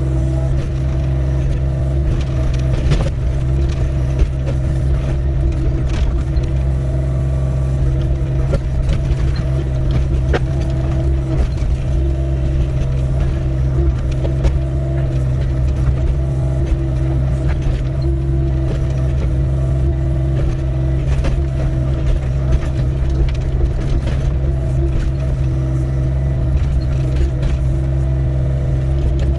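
Doosan DX55W wheeled excavator's diesel engine running steadily under load while digging, with frequent sharp knocks and scrapes from the bucket working stony ground.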